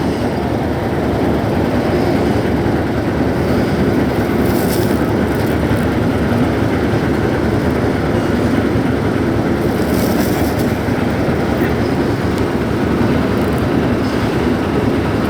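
Boat engine running steadily aboard a river ferry, a loud, even rumble that does not change.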